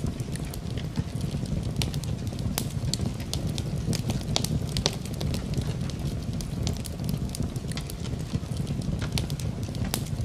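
Wood fire crackling in a fireplace: a steady low rumble of burning logs, with frequent sharp irregular pops and snaps.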